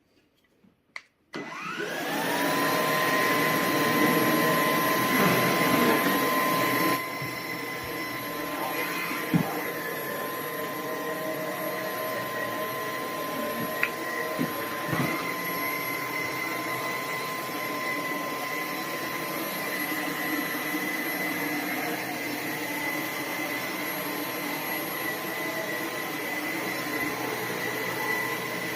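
Roborock H60 Ultra cordless stick vacuum switched on after a couple of clicks, its motor spinning up over about a second to a steady run with a high whine. About five seconds later the sound suddenly drops to a lower, duller level and runs on steadily, with a few light knocks.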